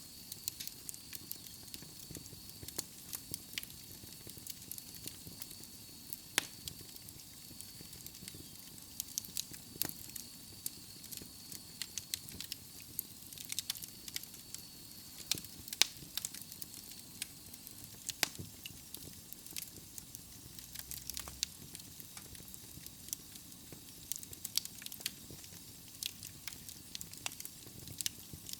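Wood fire burning in a fireplace: logs crackling with irregular sharp pops and snaps over a steady soft hiss. A faint high thin whistle runs through the first half.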